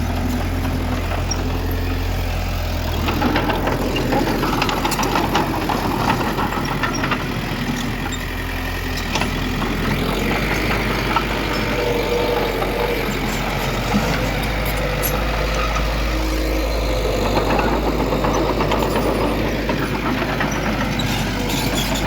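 Heavy diesel engines of earthmoving machines running, their low note shifting a couple of times as the engine speed changes, with scattered short metallic knocks and clanks.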